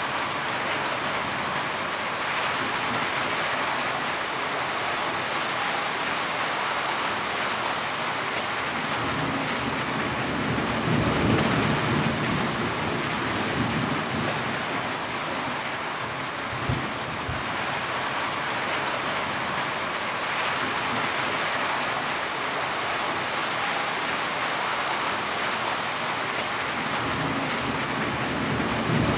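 Heavy rain falling steadily. A low rumble swells about a third of the way in and again near the end, and a single sharp tap comes a little past halfway.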